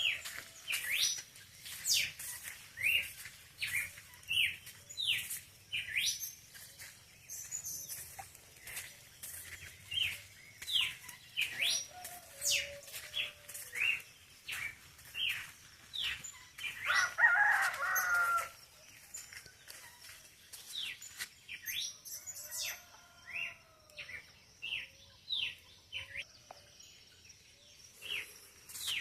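Dawn birdsong at a farm: many short rising bird chirps over and over, with a rooster crowing once about two-thirds of the way through, the loudest sound.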